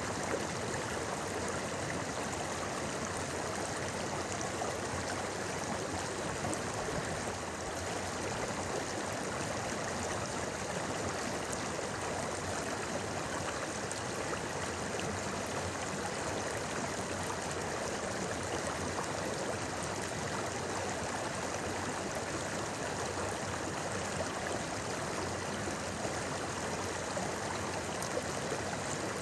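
A shallow river running steadily over rocks, an even, unbroken rushing and babbling of water.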